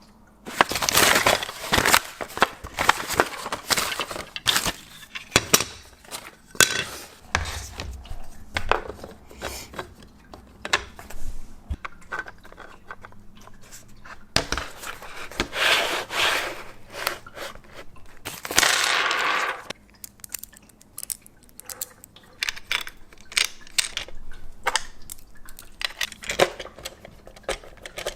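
Hands working on snowboard bindings and their mounting hardware: irregular clicks, knocks and plastic clatter, with a few longer rustling or scraping stretches.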